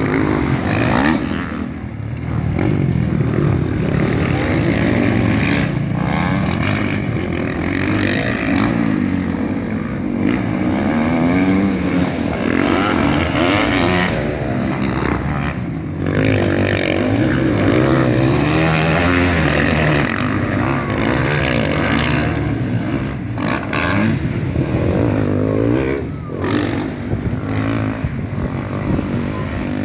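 Racing motorcycle engines revving hard, their pitch rising and falling over and over.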